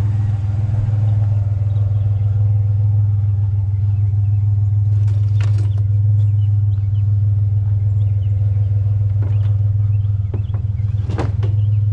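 Truck engine idling steadily with a deep, even hum, with a few light knocks scattered through the second half.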